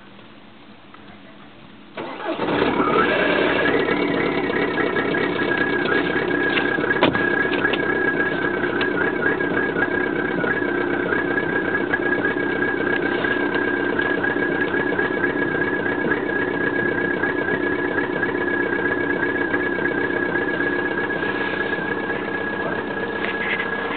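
Volkswagen Golf IV's 1.9 TDI ALH diesel engine cold-started at −7 °C: it fires about two seconds in and settles into a steady cold idle. A steady high whine sits above the engine note. The uploader says the GT1749V turbo is bad.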